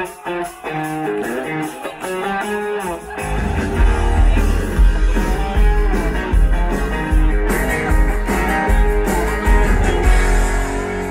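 Live country band playing a song's instrumental intro. A guitar plays the melody alone at first, then bass and drums come in about three seconds in and the full band carries on.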